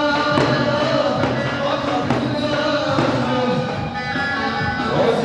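Live Turkish folk dance music from a wedding band: a held, wavering melody line over a steady beat.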